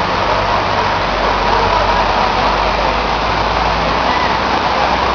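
A motor vehicle's engine running steadily at a low idle under a constant hiss of heavy rain and water.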